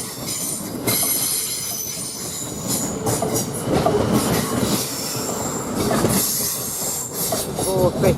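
Class 450 Desiro electric multiple unit departing, its wheels squealing in thin high tones over the rumble and clatter of the moving train.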